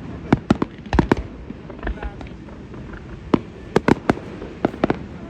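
Fireworks bursting: sharp bangs in irregular clusters, a few in quick succession in the first second, a short lull, then a faster run of bangs in the last two seconds.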